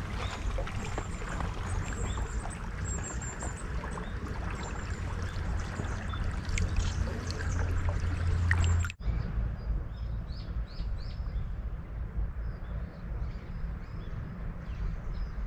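Flowing river water, a steady rushing and trickling, that breaks off abruptly about nine seconds in and resumes more softly with a few short high chirps.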